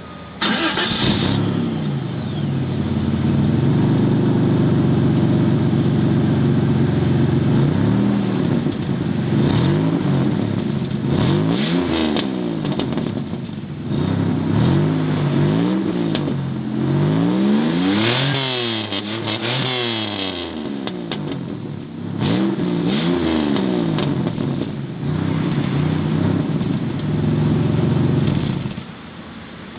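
Chrysler LeBaron's V6 engine revved while parked. It rises sharply and is held at high revs for several seconds, then is blipped up and down repeatedly, then held high again, before dropping back near the end.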